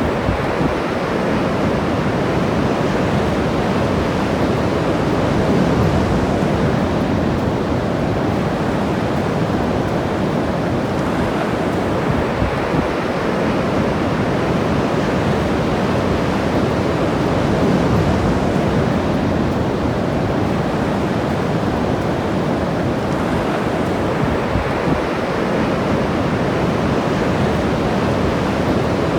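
Ocean surf washing onto a beach: a steady rush of breaking waves that swells a little every several seconds.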